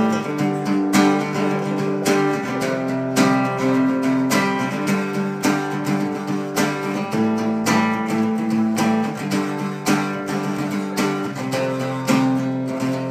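Instrumental song intro led by a strummed acoustic guitar, playing chords in a steady rhythm.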